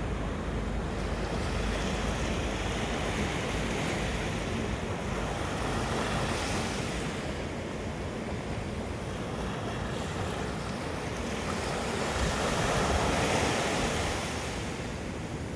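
Black Sea surf breaking and washing on the shore, a steady rush that swells with each wave every few seconds, loudest about three quarters of the way through.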